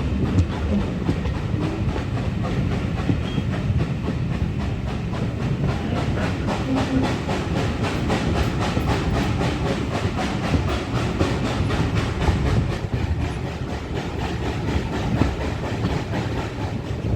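Steam-hauled train carriages running along the line, heard from aboard: a steady rumble of wheels on rail with frequent clattering clicks over the track.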